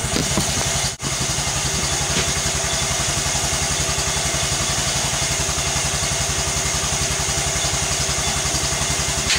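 Small garden-tractor engine idling steadily while it warms up from a cold start, with a short break about a second in.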